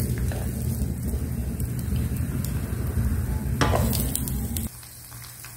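Shredded potato and egg pancakes sizzling in oil in a frying pan, with a few light taps and scrapes of a wooden spatula and chopsticks against the pan, a short clatter of them a little before the end. The sizzling cuts off suddenly about three-quarters of the way through.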